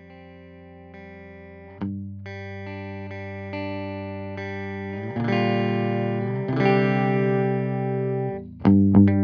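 Electric guitar played through an analog bucket-brigade-style delay pedal. Sustained chords ring out with new strums about two, five, six and a half and near nine seconds in, and it grows louder through the passage.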